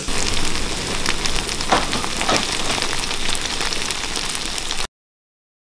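Canned mackerel and kimchi frying in a pan, a steady sizzle full of fine crackles. It cuts off abruptly about five seconds in.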